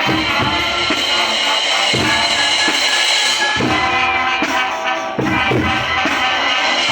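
Student marching band playing: sustained wind-instrument melody over regular bass drum and snare beats.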